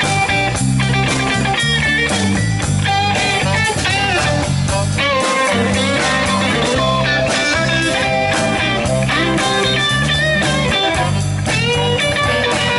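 Live rock-blues band playing an instrumental passage: electric guitar lead with bending notes over a steady bass line and drums.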